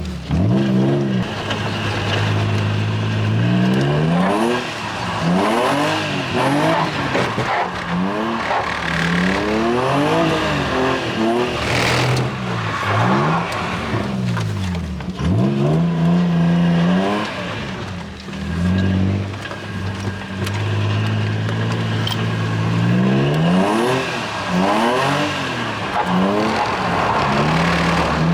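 Car engine revving hard while drifting, its pitch climbing and dropping over and over every second or two, with short stretches held at steady revs.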